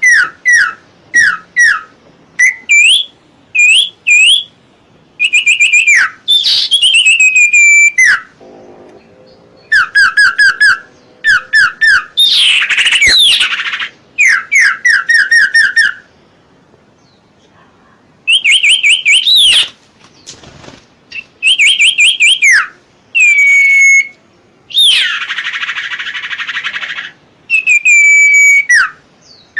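Common iora (cipoh/serpu) singing: loud phrases of fast repeated whistled notes, each a quick sweep down or up in pitch, with short pauses between phrases. About three-quarters of the way through comes one harsh, rasping note.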